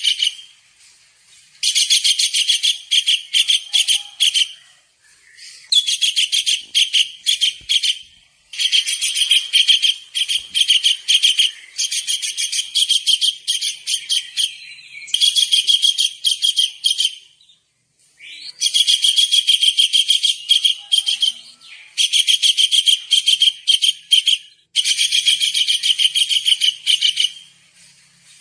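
Kingfisher (tengkek udang) calling: rapid runs of shrill, high-pitched notes, each run about two to three seconds long, repeated over and over with short pauses between them.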